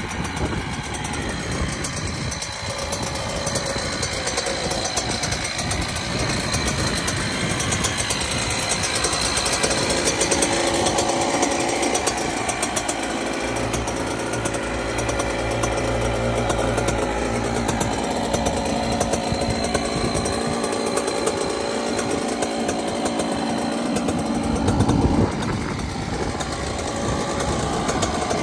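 Yamaha YZ85's 85cc two-stroke single-cylinder engine idling steadily, with a fast buzzing beat.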